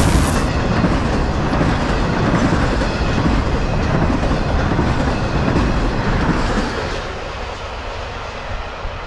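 Intermodal freight train's flatcars loaded with highway trailers rolling past on the rails. The rumble fades away about seven seconds in as the end of the train goes by.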